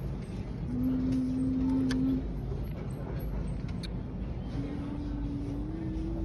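Shopping cart rolling over a store floor with a steady low rumble, and a held low tone heard twice, the second one stepping up slightly in pitch.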